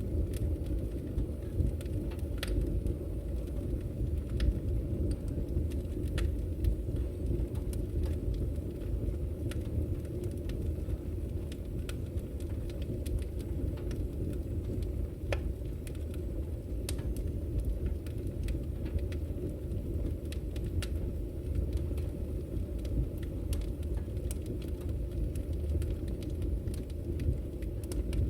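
Wood fire burning in a fireplace: a steady low rumble of the flames with scattered sharp crackles and pops from the burning firewood.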